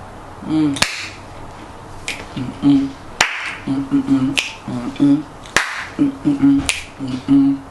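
Fingers snapping on a steady beat, about once a second, with a low hummed tune between the snaps.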